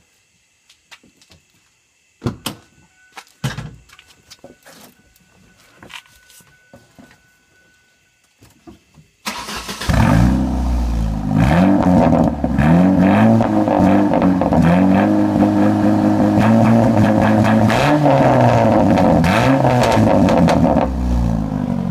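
A Ford Focus with its muffler and rear exhaust removed, running through a short straight-pipe side exit. After a few quiet clicks and knocks, the engine starts about nine seconds in and runs loud, its pitch rising and falling as it is revved, then drops a little near the end.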